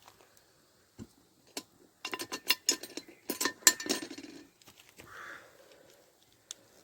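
Metal cookware and cutlery clinking and knocking together, a quick run of sharp clinks with ringing between about two and four and a half seconds in.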